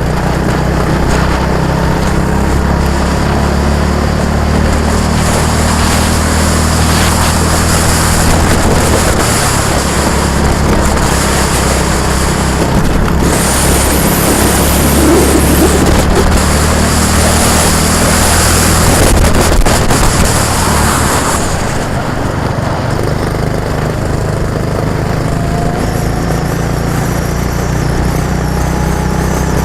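A vehicle engine running steadily at an even low pitch, with a rush of hiss, such as wind or road noise, for several seconds in the middle.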